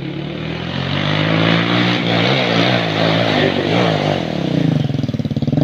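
Engine running while being warmed up, its pitch wavering up and down slightly.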